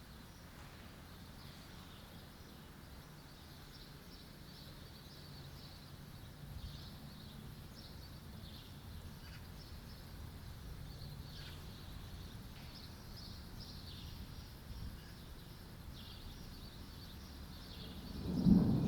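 Birds chirping over a faint low outdoor rumble, then a loud, deep rumble of thunder that builds suddenly near the end.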